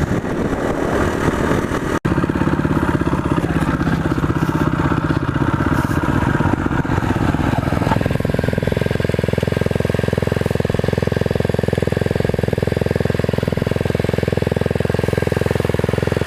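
Motorcycle engine running, its pitch wavering at first, then easing down about eight seconds in and holding steady, as at idle.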